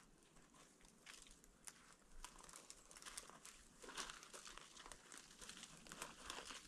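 Faint footsteps crunching in snow: an irregular crackle of compacting snow with each step, growing a little louder and denser after about two seconds.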